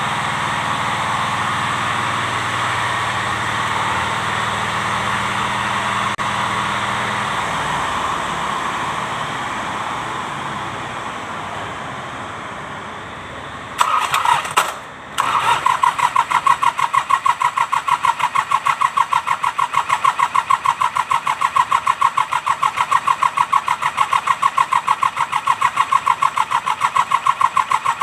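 Mitsubishi K3E three-cylinder diesel in an MT18 tractor: a steady running sound fades over the first dozen seconds. About fourteen seconds in, the starter cranks briefly, stops for a moment, then cranks steadily at about four compression pulses a second without the engine catching: the hard-starting engine failing to fire.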